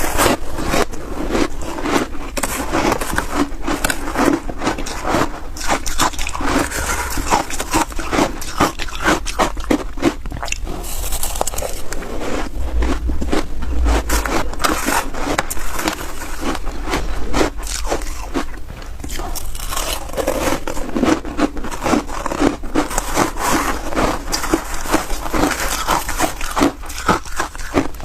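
Close-miked biting and chewing of snow ice: a continuous run of crisp, rapid crunches and crackles.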